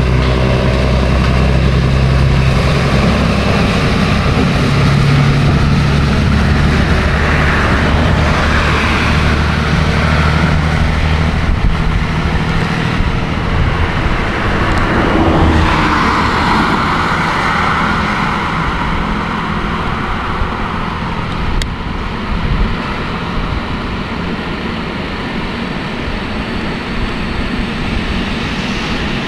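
Diesel engine of a VT 798 railbus running with a steady low drone, fading after about twelve seconds. Then a freight train's wagons roll past with a rushing rumble that peaks midway and settles into a quieter steady rumble.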